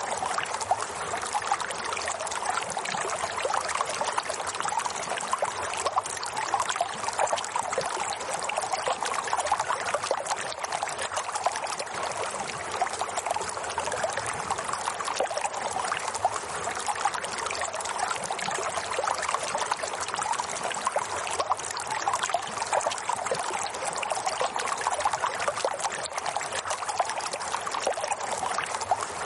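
Running water flowing and trickling steadily, a dense, even splashing with no break or change.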